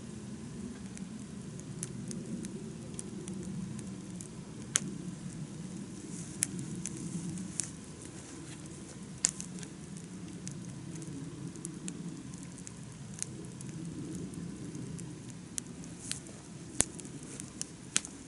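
Wood campfire burning well, a steady low rush of flame with irregular sharp crackles and pops from the wood, a handful of them louder than the rest.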